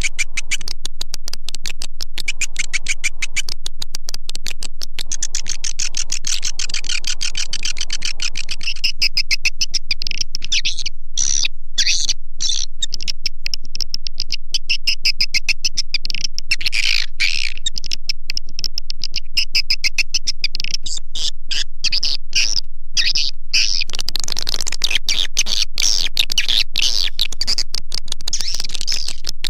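Swiftlet calling track: a loud, dense, unbroken run of rapid high chirps, a call recording meant to be played through tweeters to lure edible-nest swiftlets into a bird house. A faint steady low hum lies underneath.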